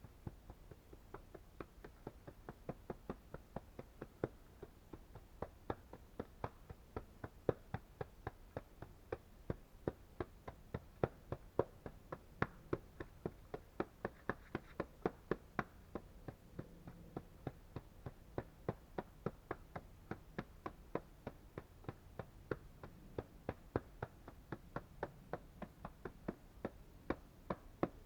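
Steady series of light, sharp taps or knocks, about three a second, that go on without a break and vary little in strength.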